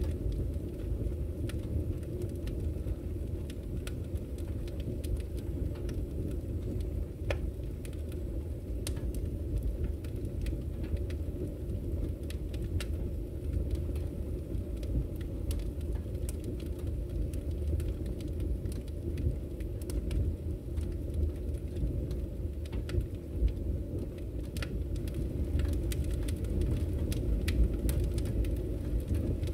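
Wood fire burning in a fireplace: a steady low roar with frequent scattered crackles and sharp pops.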